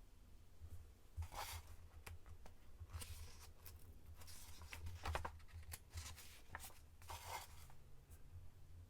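Magazine pages being turned and handled: several short papery swishes and rustles, with a steady low hum underneath.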